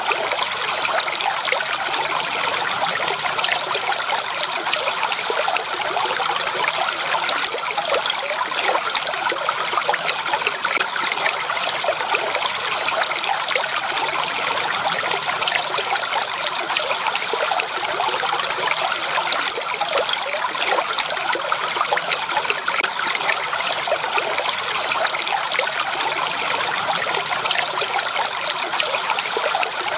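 Running water from a natural stream: a steady, continuous babbling trickle with no change in level.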